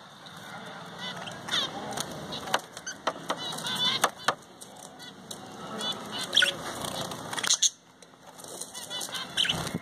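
Pet love birds (small parrots) chattering and squawking, a quick run of short, sharp, high-pitched chirps with a brief pause near the end.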